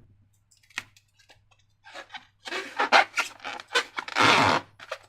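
Slime being squished and worked by hand, starting about halfway: a quick run of irregular wet squelching and crackling sounds after a quiet start with one small click.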